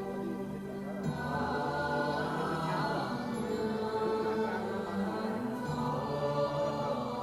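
Buddhist devotional music: a choir singing slow, held notes in a chant-like hymn with instrumental backing.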